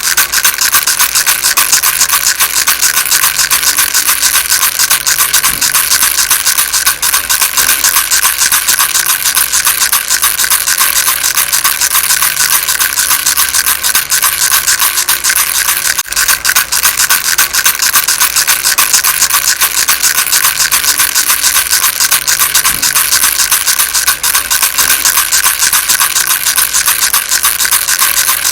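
Baby rattle shaken without pause: a loud, dense, steady rattling made of many fine clicks.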